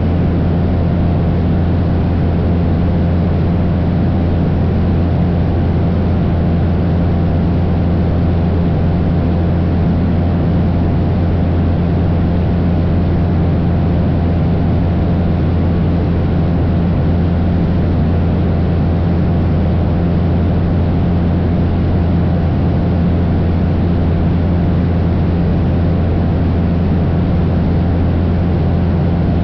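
Cessna 172's piston engine and propeller in cruise, a loud steady drone with a deep hum and several held tones above it, unchanging throughout.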